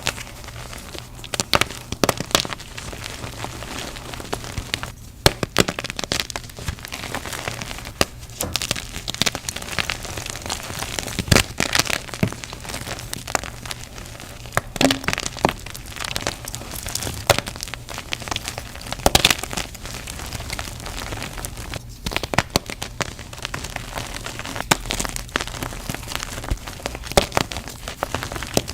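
Blocks of gym chalk being crushed: a steady run of dry crunching and crackling, broken by many sharp, irregular cracks as pieces snap and crumble.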